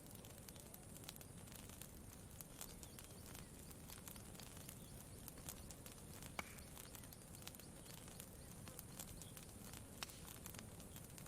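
Campfire crackling faintly: sparse small snaps and pops, one sharper pop about six seconds in, over a low steady rumble.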